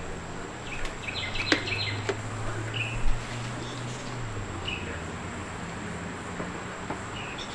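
Birds chirping in short bursts, with a few sharp clicks in the first few seconds and a low steady hum that fades out about four seconds in.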